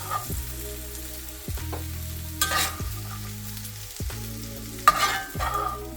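Food sizzling in a frying pan as it is stirred, with two louder bursts of sizzle about two and a half and five seconds in. Background music plays underneath.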